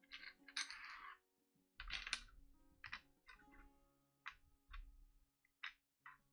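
Board-game cards and small plastic train pieces being handled on a table: a rustle of cards in the first second, then a run of short, irregular clicks and taps. Soft background music plays under it.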